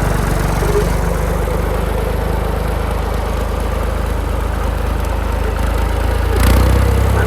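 Ford 3930 tractor's three-cylinder diesel engine running steadily, with a short thump near the end as the engine note shifts.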